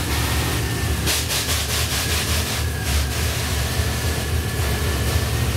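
Truck engine idling through a Spintech muffler that dumps out with no tailpipe, a steady low rumble with a faint high whine above it; the engine is still untuned.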